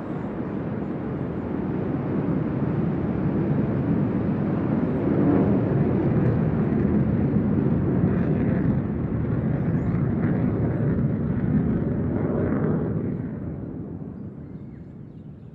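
Republic of Singapore Air Force fighter jet flying past: a deep jet roar that builds over the first few seconds, holds loud through the middle, then fades away over the last couple of seconds.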